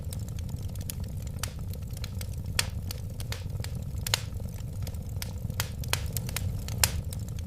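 Wood fire burning with irregular crackles and pops over a steady low rumble of flames. A few sharper pops stand out, about a third of the way in, just past halfway, and near the end.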